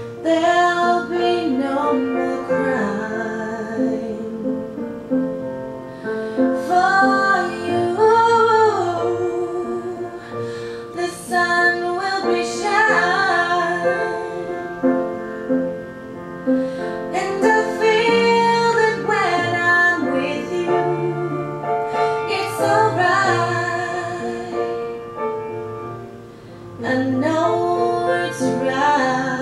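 A woman singing a song to piano accompaniment, with long held notes.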